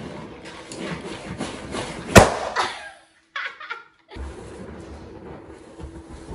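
A latex party balloon bursts with a single sharp bang about two seconds in, popped under the weight of a person sitting on it. A woman laughs right after.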